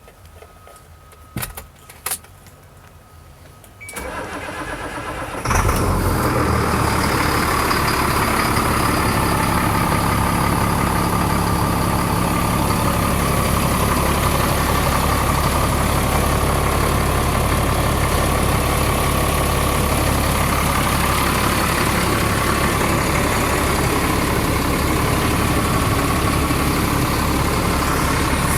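Cold start of a 2002 GMC T8500's Caterpillar 3126 inline-six diesel: two short clicks, then the starter cranks for about a second and a half and the engine catches about five and a half seconds in. It settles into a steady idle.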